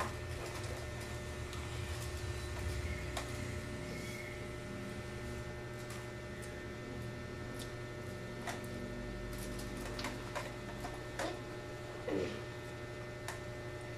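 Chewing and picking at chicken feet: faint, scattered smacks and clicks of eating over a steady low electrical hum.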